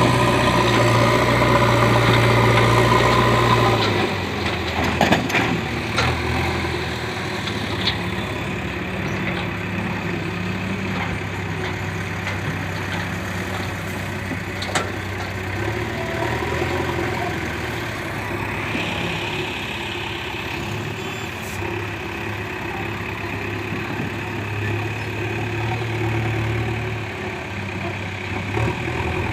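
JCB 3DX backhoe loader's diesel engine running, working hard for the first few seconds and then easing back to a steadier, quieter run, with a few sharp knocks.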